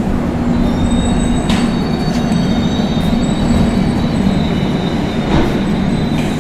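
Passenger train coaches rolling slowly along the platform: a steady low rumble with thin, high wheel squeal on and off, and a few light clicks from the wheels.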